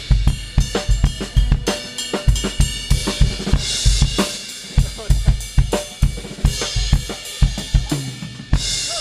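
Live drum kit playing a breakdown: rapid kick drum, snare and hi-hat strikes with crashing cymbals.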